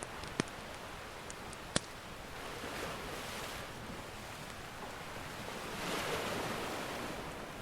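Ocean surf washing in steadily, swelling twice as waves break, with a few sharp pops from a crackling wood fire in the first two seconds.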